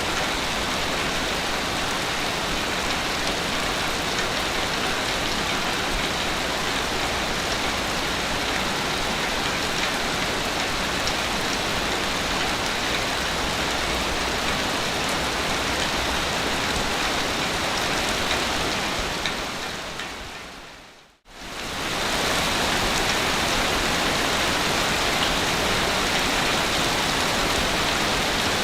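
Ocean waves washing on a beach, heard as a steady, even hiss of water without distinct surges. About 21 s in the sound fades out to near silence and quickly fades back in, a splice in the looped recording.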